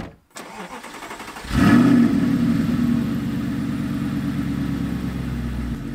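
Audi R8 engine cold-starting: about a second and a half of starter cranking, then the engine catches with a loud rev flare and settles into a steady idle.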